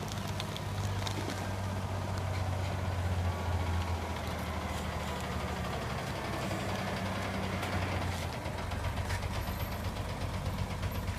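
Diesel engine of a ten-wheel dump truck running steadily at low revs, its note changing about eight and a half seconds in.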